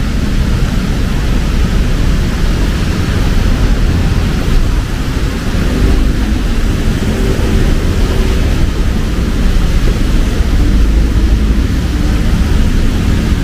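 Heavy rain falling steadily, with the low, continuous sound of road traffic underneath.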